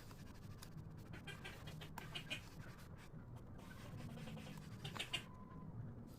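Laying ducks calling faintly in short bursts, with scattered scratching sounds; the calls cluster about two seconds in and again near the end.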